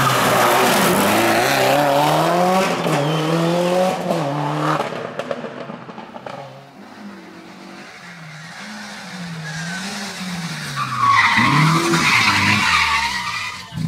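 Rally car engines at racing revs: the first car revs up and down through gear changes, loud at first, then fades away about five seconds in. A second engine rises and falls more quietly, and tyres squeal loudly for a couple of seconds near the end.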